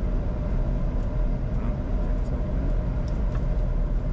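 Steady low rumble of cockpit noise inside a Bombardier Challenger 605 business jet, with a few faint clicks over it.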